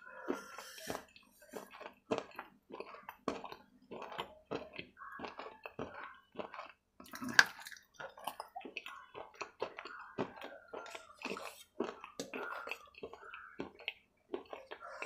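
Close-miked eating: a person chewing with wet mouth sounds and many small, irregular crunches and clicks, with one loud sharp crunch about seven seconds in.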